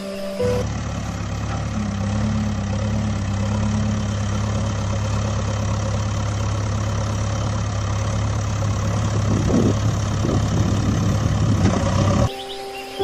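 An engine idling steadily with a low, even hum. It starts abruptly and cuts off abruptly near the end, and gets slightly louder and rougher in the last few seconds.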